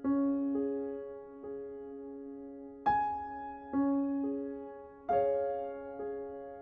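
Slow, gentle solo piano music: single struck notes and soft chords ringing out and fading, a new note about every second.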